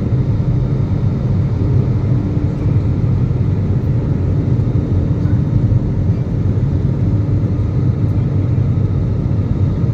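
Steady low rumble of an Airbus A320neo's CFM LEAP-1A engines and rushing air, heard inside the cabin during the climb after takeoff, with a faint steady hum in it.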